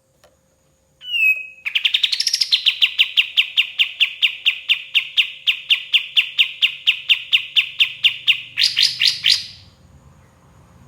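Kapas tembak bulbul singing its 'tembak' song: after a short opening note, a long, fast, evenly spaced string of sharp identical notes, about five or six a second, ending with a quicker burst of higher notes.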